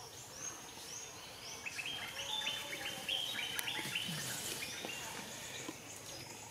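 Birds chirping in the background: quick, repeated short whistled notes, busiest from about two to four and a half seconds in, over a steady outdoor hiss.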